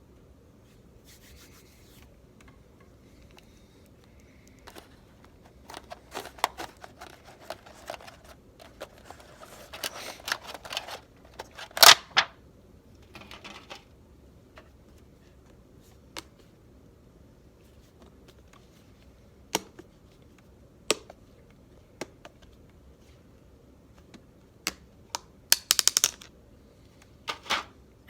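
Close-miked handling of food and tableware: scattered sharp clicks and taps with short rustling, scraping bursts. The loudest click comes about twelve seconds in, and a cluster of clicks follows near the end.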